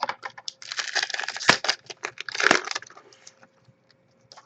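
Trading card pack wrapper crinkling and tearing as it is opened, with two sharper snaps in the middle.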